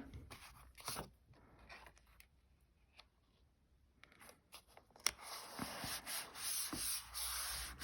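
A few light ticks of card pieces being handled, then from about five seconds in a continuous scratchy rubbing of paper card against a surface.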